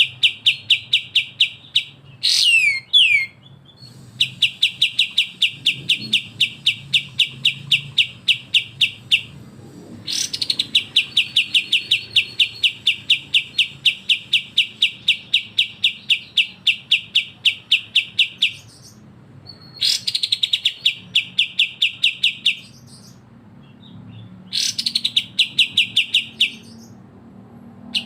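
Songbird singing long, fast rattling trills of rapidly repeated high notes, about ten a second, each trill lasting several seconds with short breaks between them; a few trills open with a quick rising swoop, and a run of sweeping down-slurred whistles comes about two seconds in.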